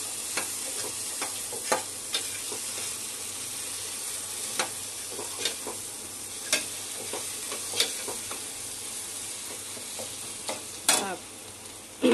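Onion-tomato masala sizzling as it fries in a stainless steel pot, with a metal spatula scraping and clicking against the pot as it is stirred. Near the end the spatula clanks against the pot and the sizzle turns a little quieter.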